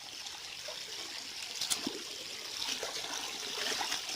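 Shallow river water trickling and flowing steadily, with one sharp click about a second and a half in.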